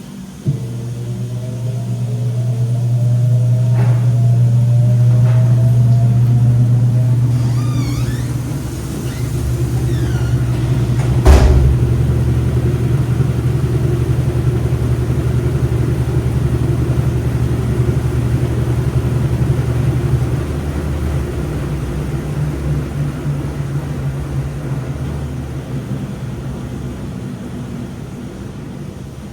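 Washing machine motor starting with a click, its whine rising in pitch over several seconds as the drum gets going, over a strong low hum. A sharp clack comes about eleven seconds in, and the hum then carries on steadily, slowly fading toward the end.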